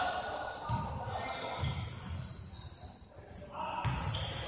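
A basketball bouncing on a hardwood gym floor in a series of dull thuds, with a few short, high squeaks and some voices in the hall.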